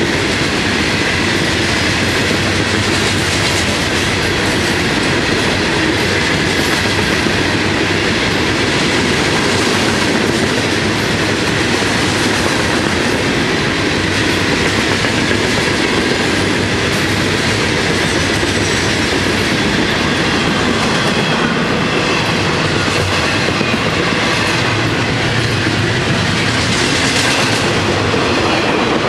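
Freight train's cars rolling past: a steady rolling noise of steel wheels on the rails, with continual clicking over the rail joints. Open-top hopper cars give way to intermodal container well cars near the end.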